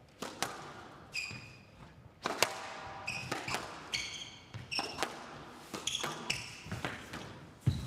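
Squash rally: a quick run of sharp smacks as the ball is struck by rackets and hits the court walls, mixed with brief high squeaks of court shoes on the wooden floor.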